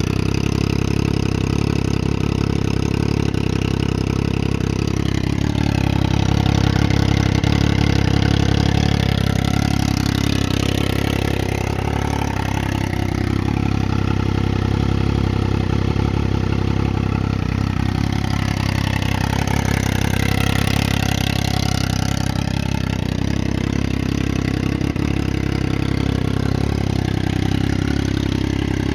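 Triumph Daytona 675's three-cylinder engine running through a custom exhaust. Its pitch slowly rises and falls several times as it is revved up and eased back.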